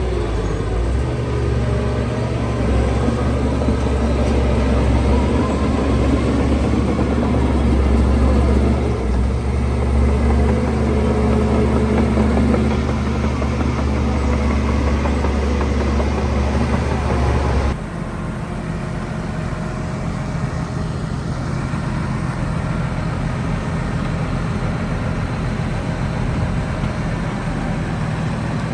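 Heavy diesel engine of earthmoving machinery running hard. About two-thirds of the way through, the sound drops abruptly to a lower, steadier running, like idling.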